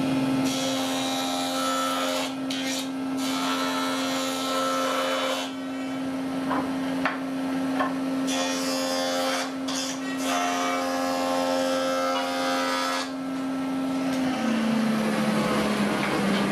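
Wood being worked by hand in long rasping strokes, about four of them, each lasting a couple of seconds. A steady low hum runs beneath and drops in pitch near the end.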